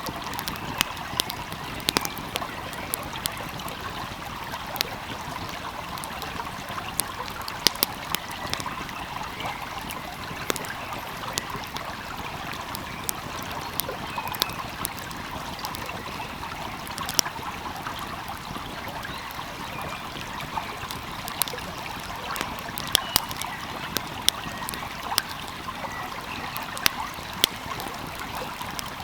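Wood fire crackling, with sharp, irregular pops and snaps, over the steady rush of a gently flowing stream.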